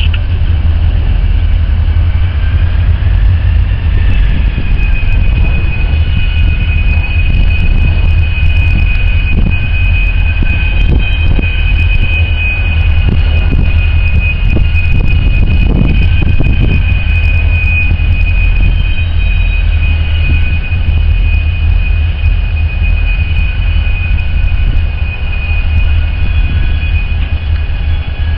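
Diesel freight locomotives passing, a heavy, steady engine rumble with a high whine held throughout.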